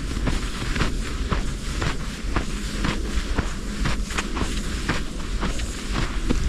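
Footsteps crunching in snow, about two steps a second, over a steady low rumble of storm wind buffeting the microphone.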